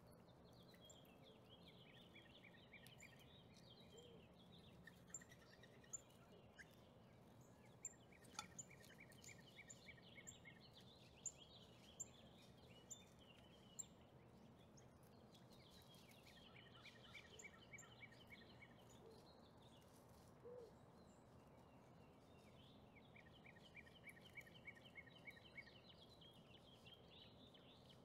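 Faint background bird song: short trills of rapid chirps, each lasting a couple of seconds and repeating every several seconds. A few small sharp clicks fall between them.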